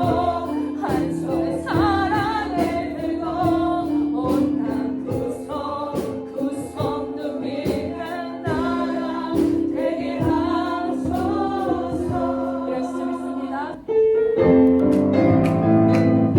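Choir singing a gospel-style worship song over instrumental backing. About fourteen seconds in, the singing stops and a strummed acoustic guitar begins the intro of the next song.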